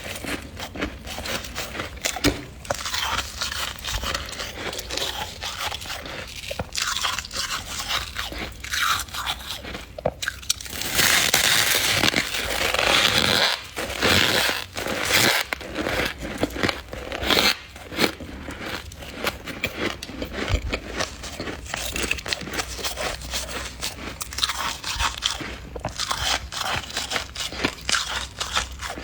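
Freezer frost being scraped and crunched as it is eaten: dense crackling crunches throughout, with a louder rush lasting a couple of seconds about eleven seconds in.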